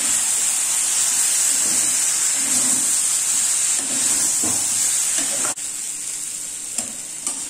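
Cubed raw plantain frying in coconut oil in a metal kadai: a steady sizzle, with a metal spoon stirring through the pieces. The sizzle turns quieter about five and a half seconds in.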